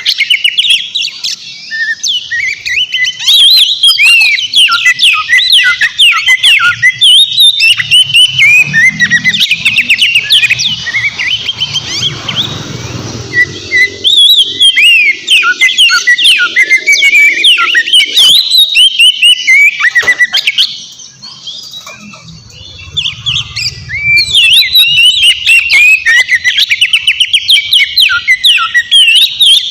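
Oriental magpie-robin (kacer) singing hard: a dense run of rapid, varied whistles and chirps that rise and fall, broken by two short lulls about midway and about two-thirds through.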